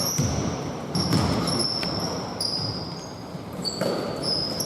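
A basketball bouncing on the court with repeated short, high squeaks of sneakers on the floor during play.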